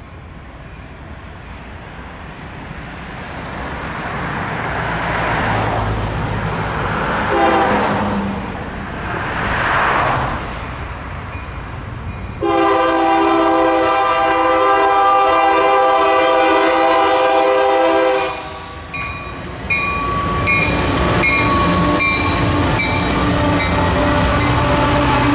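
Approaching train with a rising rumble, then a locomotive air horn sounding a long several-note chord about halfway through, lasting some five seconds. After a short break it sounds again.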